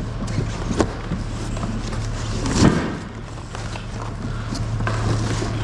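Scrap being handled while loading a truck: a few knocks, the loudest about two and a half seconds in, over a steady low hum.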